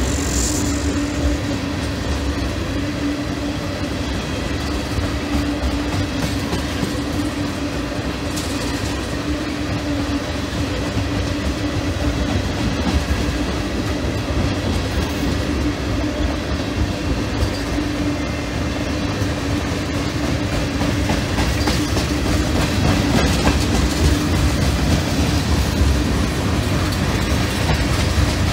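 Freight train of tank cars and covered hopper cars rolling past close by, a steady rumble of steel wheels on rail with a steady hum running through it, growing a little louder in the last few seconds.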